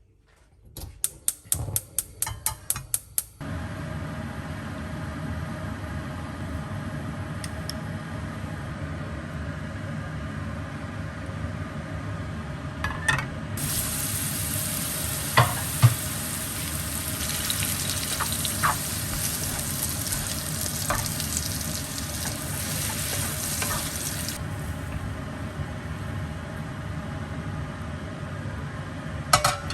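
A quick run of knife chops on a board in the first few seconds, then food sizzling steadily in a frying pan, with a few clinks of a utensil. The sizzle grows brighter for about ten seconds in the middle.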